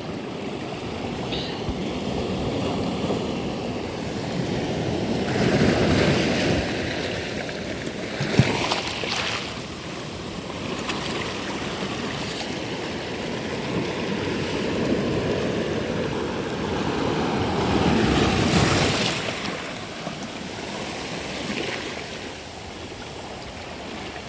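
Sea waves washing onto a sandy beach, a steady rush that swells twice as larger waves break, with one brief sharp knock a little past eight seconds in.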